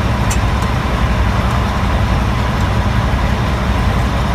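Steady rumble of road traffic going by, with a faint click of tools near the start.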